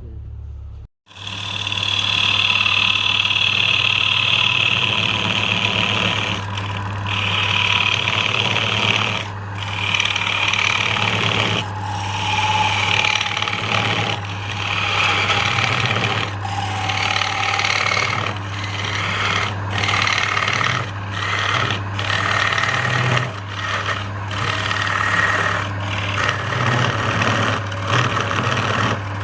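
Wood lathe running with a steady motor hum while a turning tool or sandpaper works the spinning wood. The hiss of the cutting breaks off briefly every couple of seconds as the tool is lifted and set back.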